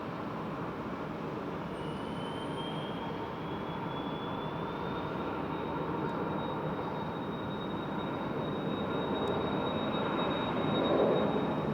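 Boeing 777 freighter's GE90 turbofan engines running at taxi power: a steady rumble with a high whine that rises over a few seconds and then holds steady.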